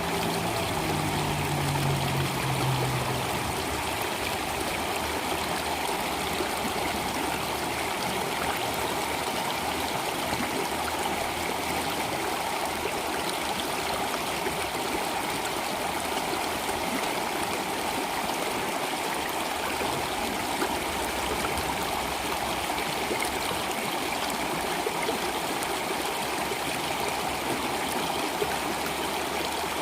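Water of a stream flowing steadily. A few held low piano notes fade out in the first three seconds.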